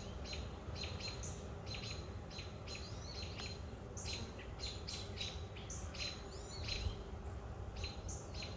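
Small songbirds chirping, short high chirps repeated two or three times a second, some with quick downward slurs, over a low steady rumble.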